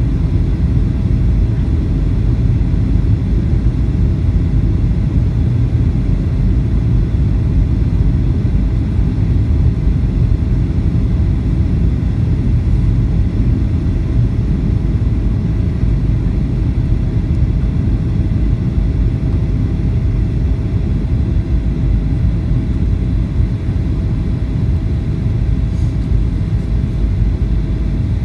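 Boeing 737-800 cabin noise: a steady deep rumble of its CFM56 engines and airflow heard from inside the passenger cabin, with a faint steady hum over it.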